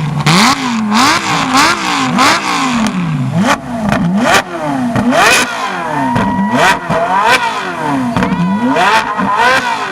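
High-performance sports car engine revved repeatedly in quick blips, about one a second, each climbing and falling back, with sharp cracks among the revs.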